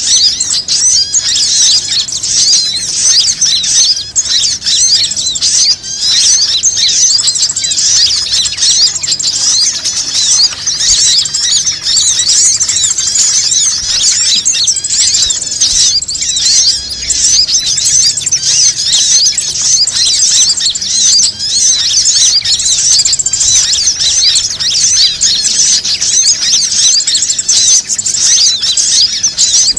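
Bird-lure (pikat) recording: a dense, loud chorus of many small birds chirping and squeaking at once, quick high overlapping calls with no break.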